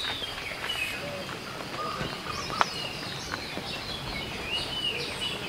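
Birds calling with short, arching chirps, a few near the start and again near the end, over a steady outdoor hiss. A single sharp click about two and a half seconds in.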